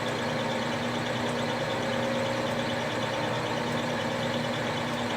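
Millport 1340 manual lathe running under power with the threading feed engaged: a steady machine hum with several held tones from the motor and gear train.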